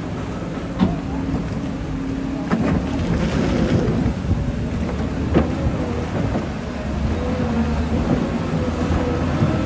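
Skip loader's engine running steadily under heavy working noise, with a few sharp knocks and clanks as it clears mud and debris. Rain and rushing water sound underneath.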